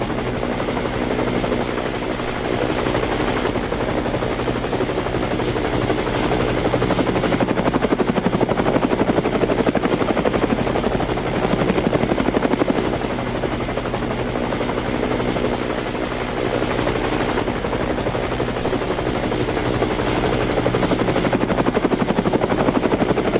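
Helicopter sound: a steady, rapid rotor chop over a droning engine, holding an even level.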